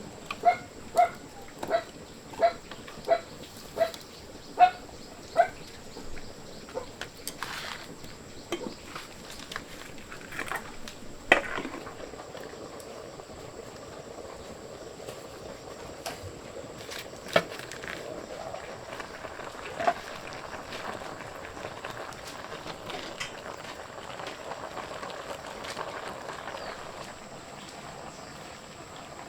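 An animal calling about eight times in quick succession, short pitched calls roughly two-thirds of a second apart, then scattered knocks and clatter over a steady rural background.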